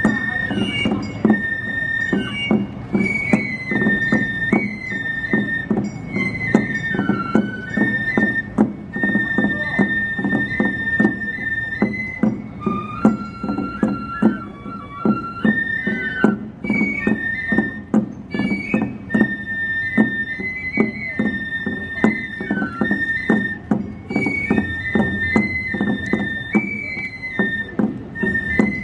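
Minshingaku (Ming-Qing Chinese-style) festival ensemble playing: a high, held wind melody stepping between notes over rapid, steady percussion strokes.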